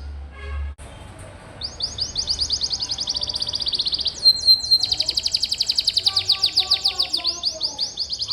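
Domestic canary singing long, rapid rolling trills of high, evenly repeated notes. The song begins after a short pause about a second and a half in and changes phrase about four seconds in, with a few falling notes.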